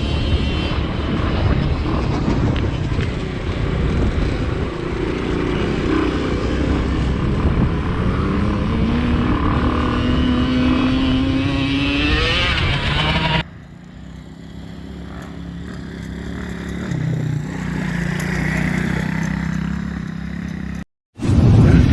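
Motocross engine running hard, its pitch climbing as it revs up over several seconds. A sudden cut about two-thirds of the way through gives way to a quieter engine at a steadier pitch, with a brief dropout near the end.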